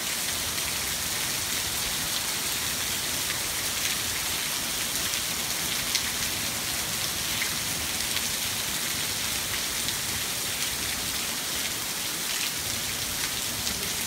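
Steady rainy-season downpour falling on garden foliage, a constant even hiss with now and then the sharper tick of a single nearby drop.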